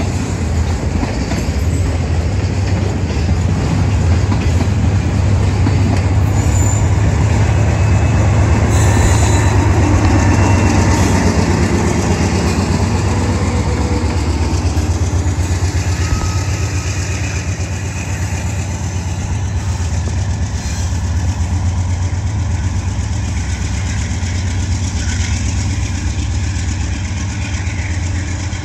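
Freight train passing close: rail cars rolling by on the track and the steady low running of a GE Dash 9-44CW diesel locomotive's engine, loudest partway through.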